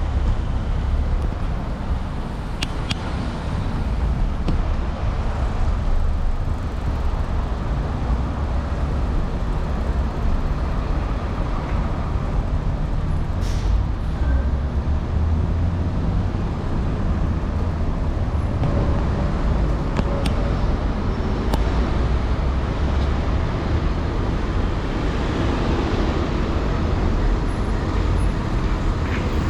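City street traffic noise: a steady rumble of passing cars and buses, with a few short clicks and a brief hiss about halfway through.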